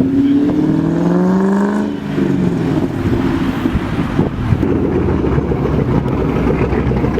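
A car engine revs up, its pitch rising over the first two seconds, then settles into a steady low exhaust rumble.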